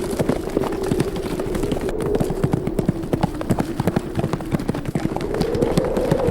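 Hoofbeats of a group of running horses, a rapid, irregular patter of many hooves, over a steady wind tone that wavers slightly in pitch.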